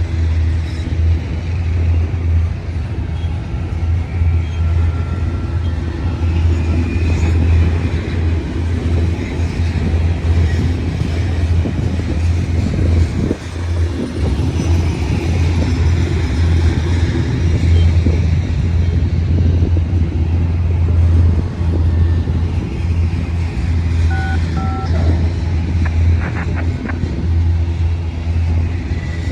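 A train running past with a steady, loud low rumble. Short beeps at two pitches come twice near the end.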